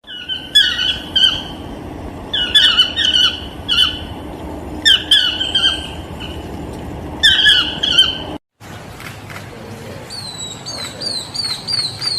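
Broadbill calls from two recordings: first, short downslurred squawking notes in groups of two to four, repeated every second or two over a steady background hiss; after an abrupt cut, a regular series of higher, even notes at about three a second.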